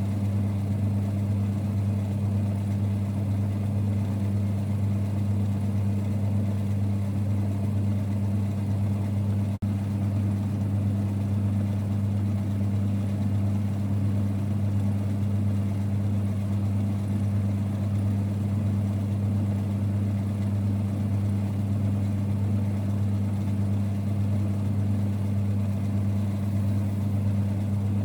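1946 Boxford lathe running with a steady low hum, with a momentary dip about ten seconds in.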